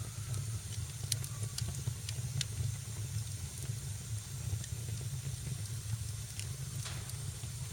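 Wood fire burning in a fireplace: scattered sharp crackles and pops over a steady hiss and a low rumble.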